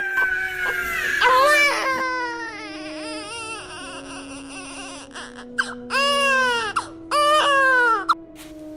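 Newborn baby crying in rising-and-falling wails, with two long cries near the end, over low steady held tones that step from pitch to pitch.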